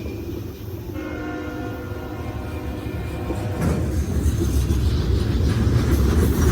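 Freight locomotive horn sounding a steady chord for a couple of seconds. After it comes the heavy low rumble of a diesel locomotive and train, growing louder from about halfway through as it comes closer.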